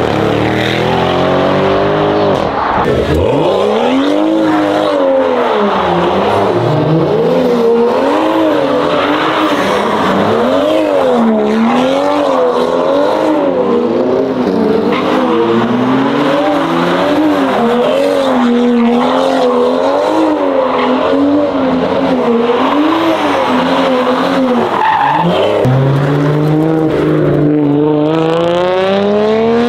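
A car engine revving up and down over and over, about once a second, as the car slides round with its tyres squealing: a car doing donuts. Near the end a Nissan Skyline R33 pulls away, its engine rising steadily in pitch.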